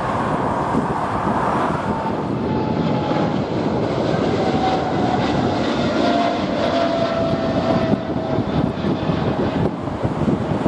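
Jet airliner taking off past the microphone, its engines running at takeoff power with a whining tone that falls slowly in pitch as it goes by. Wind buffets the microphone throughout.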